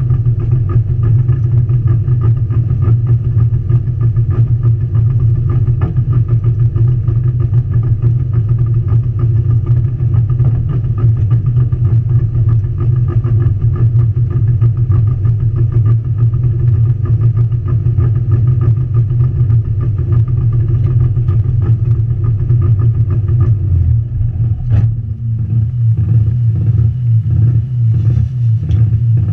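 Competition car's engine idling steadily, heard from inside the stripped, roll-caged cabin. About 25 seconds in there is a sharp click, and the engine note changes after it.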